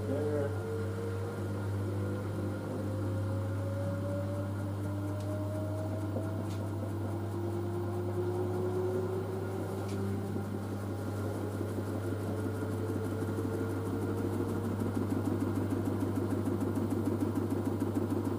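LG DirectDrive washer dryer spinning up: the direct-drive motor's whine rises slowly in pitch as the drum gathers speed. Over the last few seconds a fast, regular pulsing builds as the drum's spin quickens.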